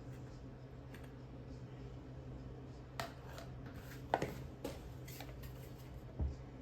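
A few light clicks and knocks, four in all, spread over the second half, over a steady low hum.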